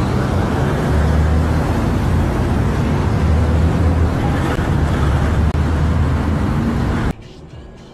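A car driving, with steady engine and road rumble, cuts off suddenly near the end.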